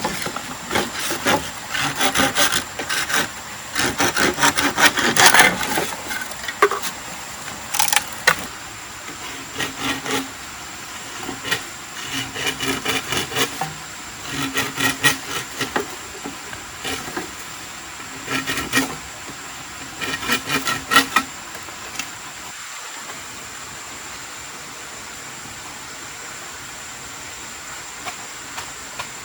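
Wood being sawn by hand: rapid back-and-forth strokes at first, then short bursts of strokes with pauses between them, stopping a little past two-thirds of the way through. After that only a steady background hiss remains.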